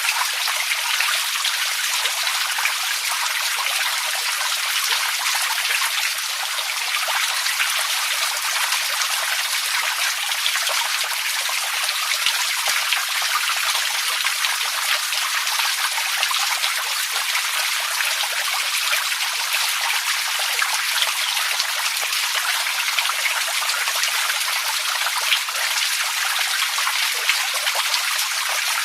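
Running water trickling and splashing steadily, a light, bright rush with no pauses or changes.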